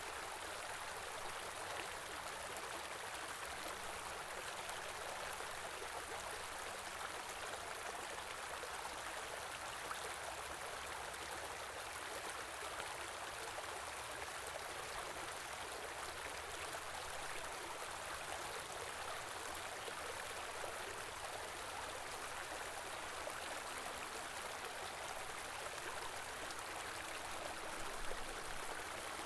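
Small stream flowing: a steady rush and babble of running water.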